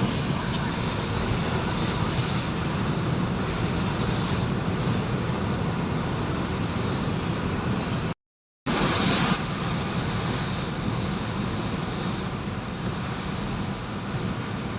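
Steady road noise from a moving vehicle, broken by a half-second gap of silence a little past halfway.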